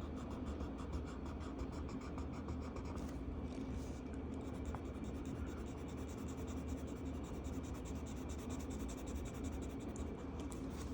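Marker scribbling on paper in quick back-and-forth coloring strokes, many strokes a second, over a steady low hum.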